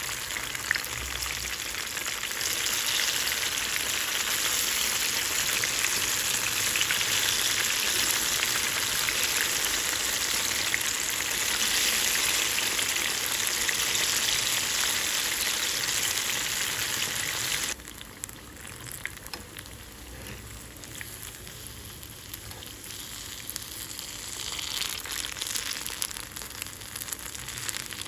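Food frying in hot oil: a steady sizzle with small crackles. About two-thirds of the way through it suddenly becomes much quieter, then swells again near the end.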